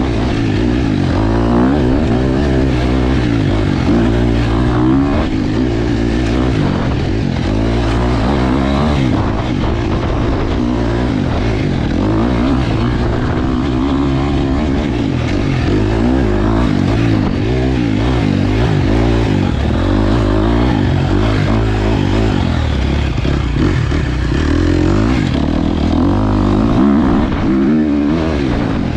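KTM 250 XC-F dirt bike's four-stroke single-cylinder engine, revving up and down continuously as the bike is ridden and shifted through the gears.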